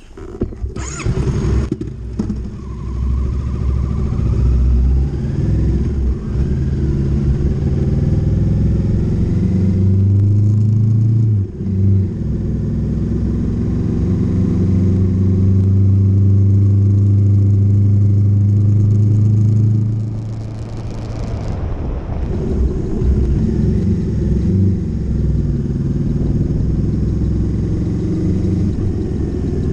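Motorcycle engine heard from on board the bike while riding: the note climbs under acceleration, dips briefly about a third of the way in, then holds steady at high revs before easing off about two-thirds of the way in and running on more gently.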